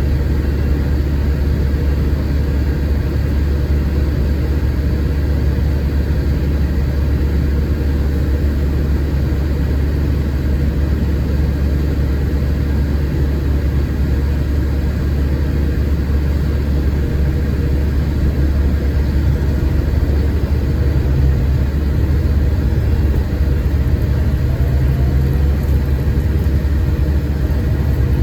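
Scania K410IB coach's diesel engine running steadily as heard from inside the cabin: a constant low rumble with road and drivetrain noise, rising slightly near the end.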